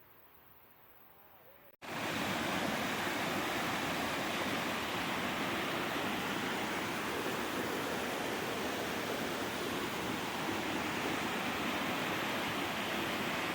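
Steady rushing water. It starts abruptly about two seconds in, after a moment of faint quiet, and holds at an even level without change.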